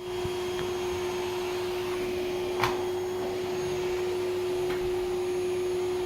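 Vacuum cleaner running steadily with a constant hum. A single sharp click is heard about two and a half seconds in.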